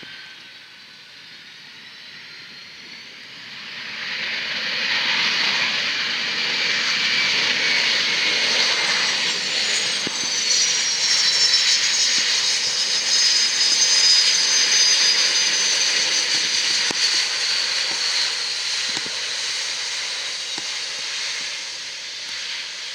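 Jet aircraft passing close by: the engine noise swells sharply about four seconds in, a high engine whine falls in pitch as it goes past, and the sound then slowly fades away.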